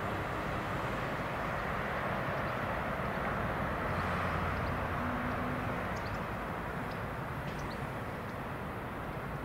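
Car-carrier freight train running on the line at a distance, a steady rumble of wheels on rail, with a faint low engine hum that rises for a couple of seconds midway.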